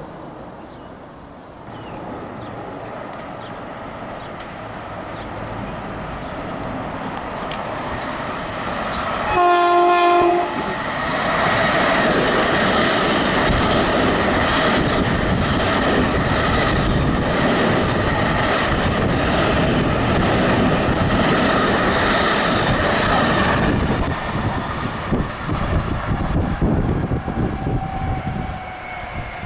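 Long Island Rail Road train approaching, sounding one short horn blast about nine seconds in, then passing close by with loud wheel and rail noise for about twelve seconds before it fades.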